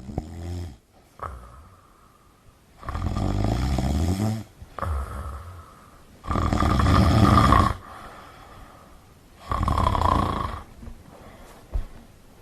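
Someone asleep and snoring: three long snores about three seconds apart, the middle one loudest, with quieter breaths between them.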